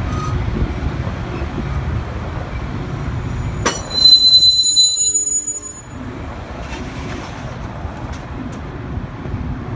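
Train rolling on steel rails with a steady low rumble. About four seconds in comes a sharp click, then a loud, high metal-on-metal squeal lasting about two seconds.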